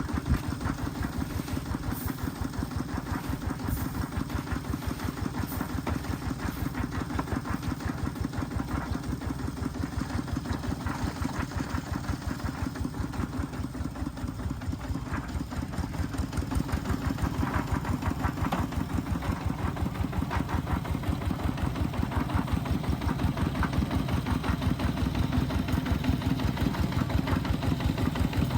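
An engine running steadily with a fast, even beat, growing a little louder about sixteen seconds in.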